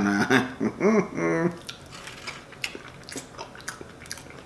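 A few short vocal sounds in the first second and a half, then close-miked chewing with scattered small wet mouth clicks as a man eats a bite of boiled potato dipped in sauce.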